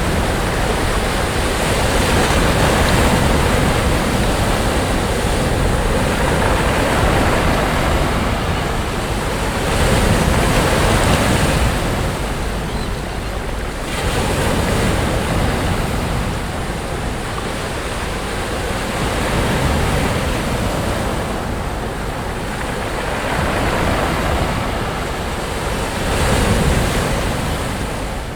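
Sea waves breaking on a sandy beach, the surf swelling and easing every few seconds, with a low rumble of wind on the microphone.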